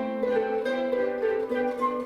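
Chamber ensemble of flute, harp, violin, cello, double bass and piano playing, led by quick plucked notes that change several times a second over held tones.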